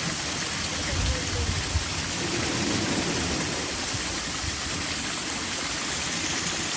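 Steady rush of flowing water, with a few low bumps a little after a second in.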